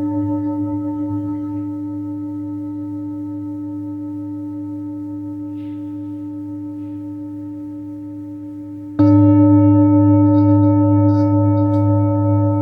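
Tibetan singing bowl ringing with a long, slowly fading tone and its overtones. About nine seconds in it is struck again and rings out much louder.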